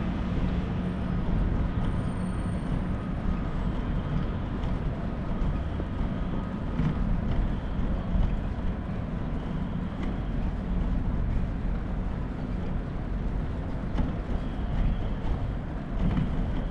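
Steady low rumble of city street noise, traffic and wind, with no distinct event standing out.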